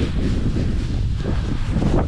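Loud wind buffeting the microphone in strong gusts, a steady low rumble.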